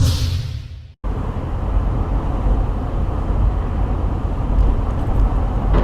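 A whoosh fading away over the first second, then, after a sudden cut, the steady low rumble of a car on the road: engine and tyre noise as picked up by a dashcam.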